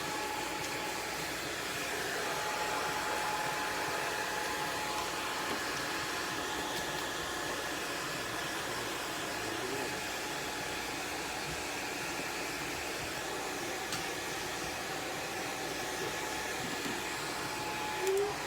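Hair dryer running steadily, a rush of air with a thin steady whine, drying a long-haired cat's soaking-wet coat.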